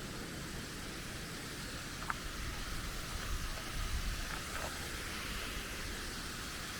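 Steady rushing of water from a small waterfall, with a low, uneven rumble underneath.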